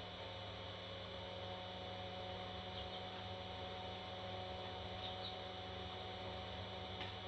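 Baby parrot chicks giving a few faint, brief chirps, spaced a couple of seconds apart, over a steady background hum.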